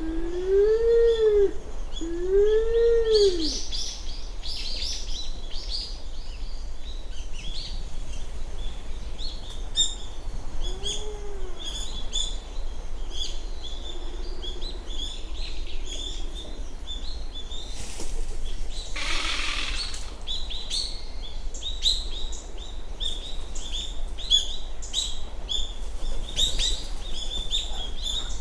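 Japanese wood pigeon (black wood pigeon) calling: low coos that rise and fall, "u-uu-u", two near the start and a single one about 11 seconds in, then a harsh rattling "garara" growl about 18 seconds in. Small birds chirp high and often throughout.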